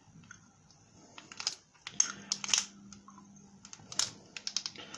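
Spoon scraping thick ginger paste out of a jar and tapping it off into a plastic bowl: a run of irregular light clicks and taps.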